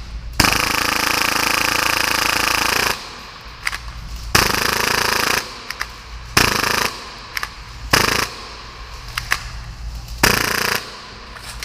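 Full-auto Tokyo Marui Hi-Capa gas-blowback airsoft pistol, built to fire 30 rounds per second, shooting in bursts. One long burst of about two and a half seconds comes first, then four shorter bursts and a few single shots as it stops and restarts.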